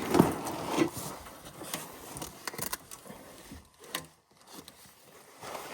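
A hydraulic hose being pulled out through an excavator's frame: irregular scrapes, knocks and rustles of the hose against the metal, loudest in the first second.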